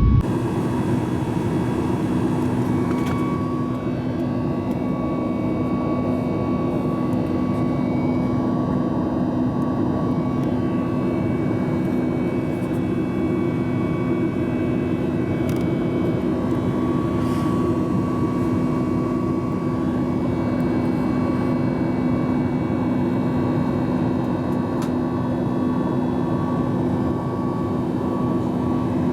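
Steady cabin noise of a Boeing 737 MAX 8-200 heard from a seat inside the cabin: a constant rush of air and jet engine noise with several steady hums and a faint whine, holding an even level without rising or falling.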